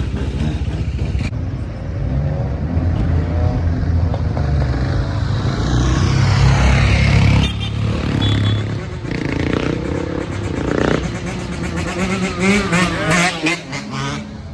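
Motorbike engines revving, rising and falling in pitch, loudest about seven seconds in.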